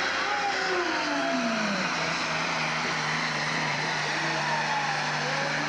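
Tuned DAF diesel engine of a tractor-pulling truck running hard under load, a dense steady noise. Its pitch slides down about a second in, then holds steady.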